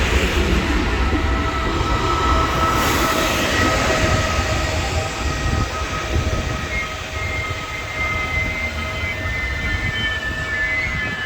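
Regional train of an E464 electric locomotive and Vivalto coaches rolling in and slowing, with a low rumble and steady high squealing tones from the wheels and brakes.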